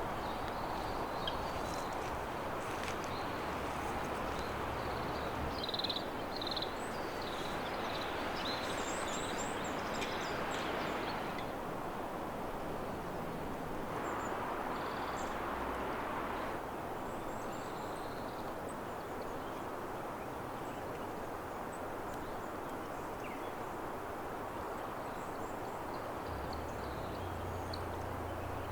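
Steady rush of flowing water, with small wild birds giving short high chirps and calls over it, most of them in the first half.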